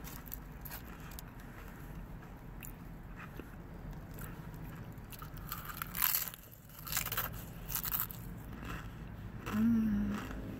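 Chewing food with wet mouth clicks, then loud lip smacks about six, seven and eight seconds in as fingertips are licked and sucked clean. A short hum near the end.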